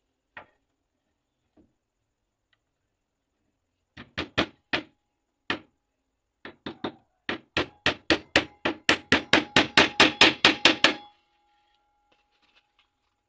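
Hammer blows: a few single knocks, then a fast, steady run of strikes, about four or five a second and growing louder, that stops short.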